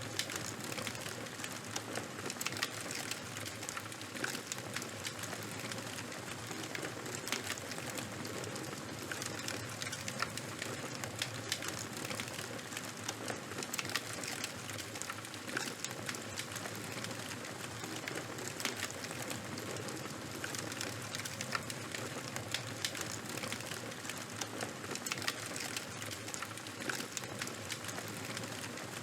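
Charcoal and wood bonfire burning, with a steady hiss and many small crackles and pops.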